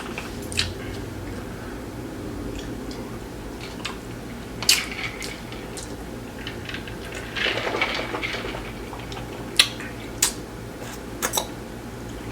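Close-up eating sounds: wet chewing and mouth sounds, with a few scattered sharp clicks and a longer noisy stretch about seven seconds in.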